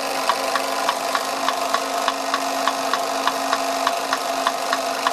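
1930s Bing twin-cylinder toy live steam engine running under steam, together with the models it drives: a steady hiss and hum with a light metallic click about three times a second.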